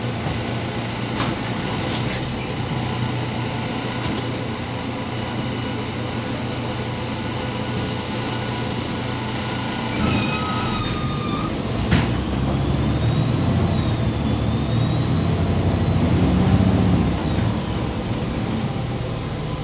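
MAZ 203 city bus heard from inside while it drives, a steady engine and road rumble. There is a short louder burst about four seconds in and a brief high squeal and click about halfway through. A wavering high whine follows.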